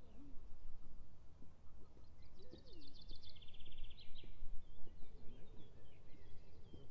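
A songbird sings one rapid trill of repeated notes that drops in pitch and ends in a short flourish, about two seconds in. Other faint bird calls and a steady low rumble lie underneath.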